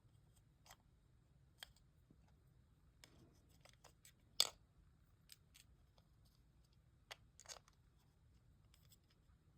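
Faint, scattered clicks and taps of small plastic toy-mechanism parts being handled while rubber bands are fitted onto the gears. The loudest tap comes about halfway through.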